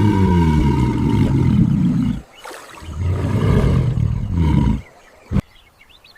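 Two long, deep, loud animal roars, the second shorter than the first. A single sharp knock follows, then faint bird chirps.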